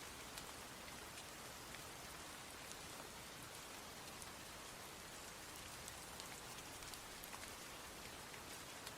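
Steady rain falling, with scattered sharp ticks of individual drops striking close by.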